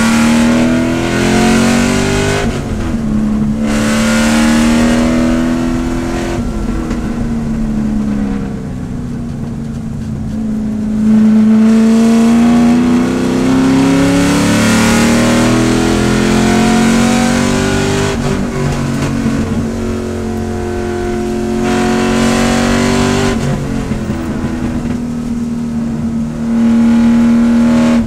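C5 Corvette race car's V8 heard from inside the cockpit, revving up under acceleration and dropping back off the throttle for corners. Its pitch climbs and falls repeatedly, with several sudden drops at gear changes.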